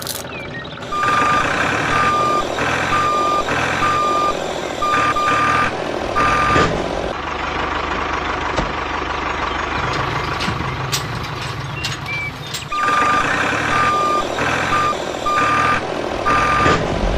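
Reversing alarm beeping repeatedly over a running engine, in two spells with a break of about six seconds in the middle where only the engine is heard.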